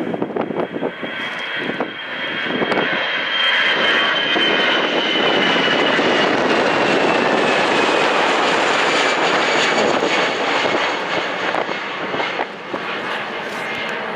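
Jet airliner passing close by: a loud rush of engine noise that builds over the first few seconds and then eases off, with a high fan whine sliding slowly down in pitch as the aircraft goes past.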